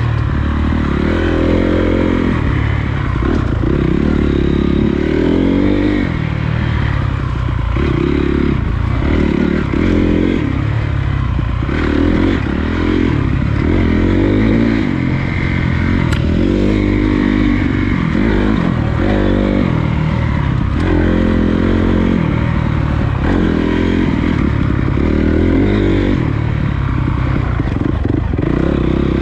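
Honda CRF250 dirt bike's single-cylinder four-stroke engine under way on a trail, its pitch rising and falling every second or two as the throttle is worked, over a rattly clatter of the bike and rushing noise.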